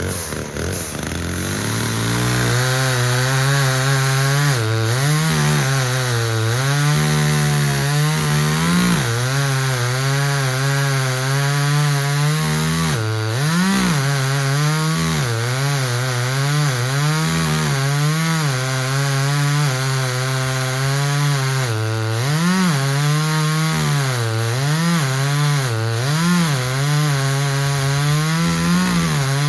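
Chainsaw cutting through a pine trunk. The engine comes up to speed about two seconds in and runs high and steady under load, its pitch dipping briefly and recovering several times.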